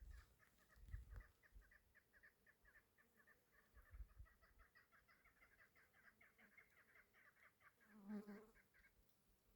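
Chukar partridge calling: a fast, steady run of repeated clucking notes, about five a second, stopping about nine seconds in. A lower, louder call comes near the end, and a few low thumps are heard early on.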